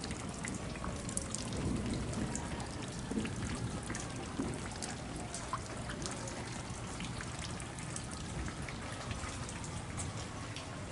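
Steady rain falling, with many separate drops hitting close by, and runoff water trickling.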